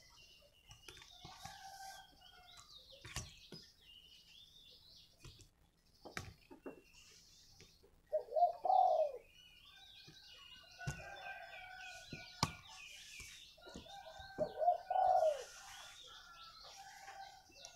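Caged spotted dove cooing its morning call, several phrases a few seconds apart, louder in the second half. Other small birds chirp higher up throughout.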